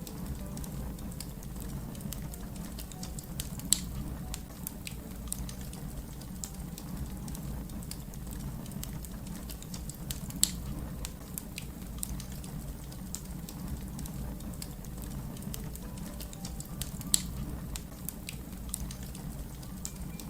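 Wood fire crackling steadily over a low rumble, with frequent small snaps and three louder pops spread through.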